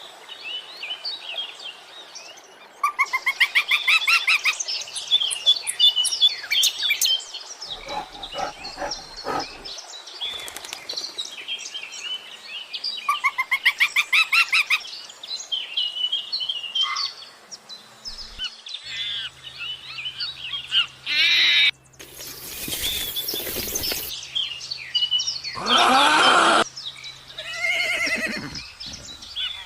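Birds chirping and calling, with a couple of fast trilled phrases and a louder, harsher call near the end.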